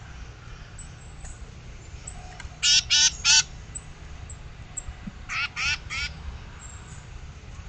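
A bird giving harsh, raspy calls in two quick series of three, the first about three seconds in and the second about two seconds later.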